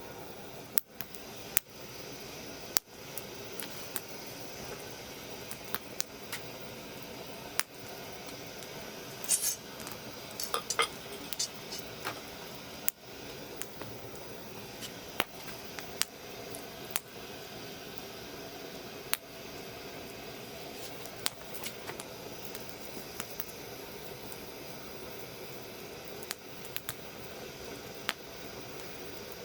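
Wood fire burning in a Snow Peak fire stand: a steady low hiss with sharp crackles and pops scattered throughout, and a quick run of pops about ten seconds in.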